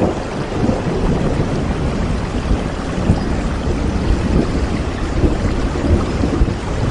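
Steady, continuous rain, dense and even, its sound weighted toward the low end.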